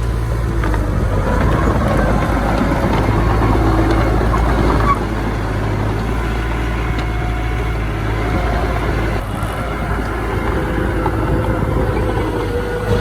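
Diesel engines of earthmoving machinery (dump truck and bulldozer) running at work: a steady low rumble that drops slightly in level about five seconds in.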